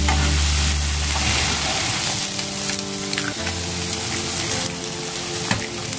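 Chopped onion, cabbage and mixed vegetables sizzling steadily in hot oil in a frying pan, stirred with a spatula, with a few light scrapes and clicks.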